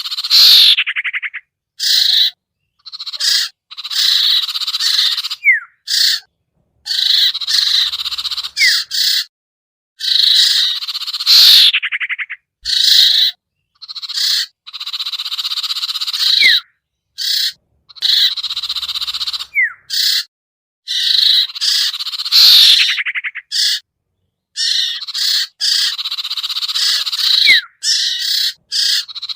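Bird-lure recording of sertu (sirtu) calls: loud, harsh chattering bursts that start and stop abruptly, as if edited and looped, separated by short silences. Brief whistled notes are mixed in every few seconds.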